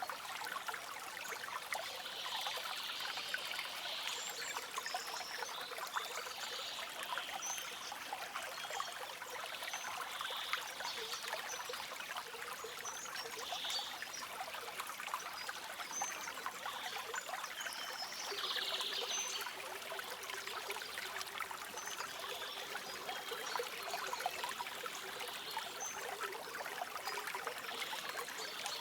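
Small stream trickling and babbling steadily, with brief high bird calls now and then.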